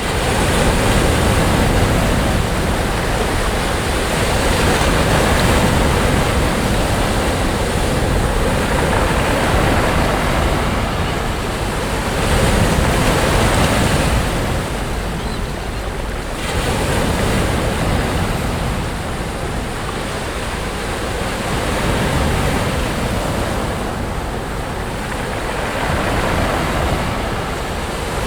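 Sea waves breaking and washing on a beach, a continuous surf rising and falling in slow swells, with some wind on the microphone.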